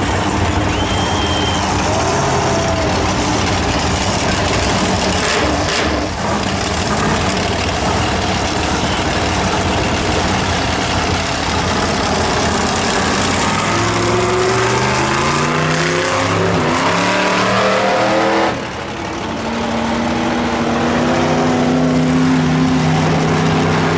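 Monster trucks' supercharged, alcohol-injected big-block V8 engines revving together in loud, continuous engine noise. About fourteen seconds in the engines rev up in several rising sweeps, cut off suddenly, then come back in a steady, high-revving hold.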